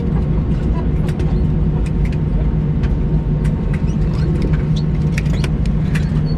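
Steady low rumble and hum inside a vehicle cabin, with many light clicks and knocks scattered through it.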